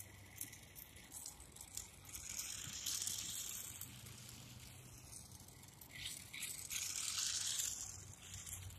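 1/43-scale micro RC short course truck driving across the ground: its small electric motor and tyres give two hissing bursts under throttle, one about two seconds in and one about six seconds in, each lasting a couple of seconds.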